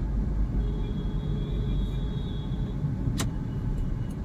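Hyundai i10's 1.2-litre Kappa four-cylinder petrol engine and road noise heard inside the cabin while driving: a steady low rumble, with one sharp click about three seconds in. The cabin and engine noise is normal, with no unwanted sounds.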